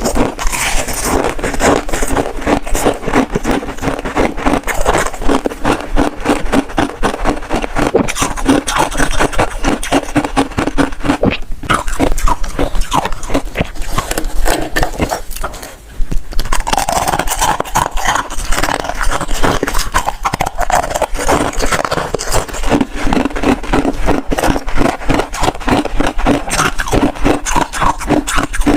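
Close-miked crunching and chewing of freezer frost: rapid, dense crunches with a short break about halfway through.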